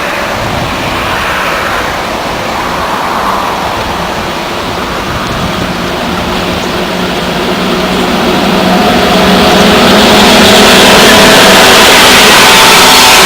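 A train approaching on the line, its noise swelling to full loudness over a couple of seconds about two-thirds of the way in, with a steady hum of its motors heard over the rushing noise.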